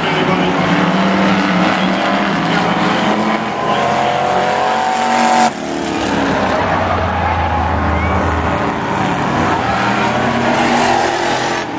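Demo-race pickup truck engines running hard on a speedway track, one engine's pitch climbing as it revs. The sound changes abruptly about halfway through, then steady engine noise carries on.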